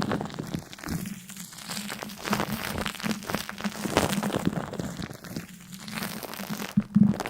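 Dense, irregular crinkling and crackling, many small clicks in quick succession, with a louder crackle near the end.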